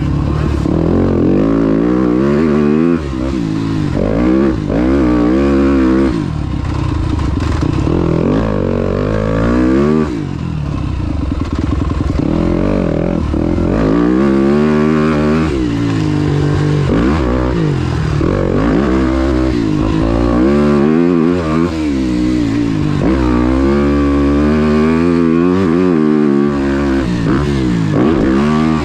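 Motocross bike engine revving hard while ridden, its pitch climbing and falling again and again as the throttle is worked, with short drops in level now and then.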